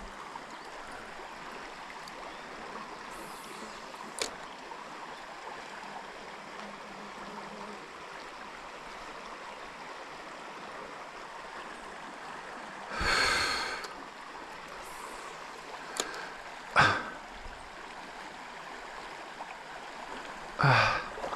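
Steady rush of a trout stream's flowing water, with a long, loud breath out from the angler about 13 seconds in and shorter breaths near 17 and 21 seconds, plus a few faint clicks.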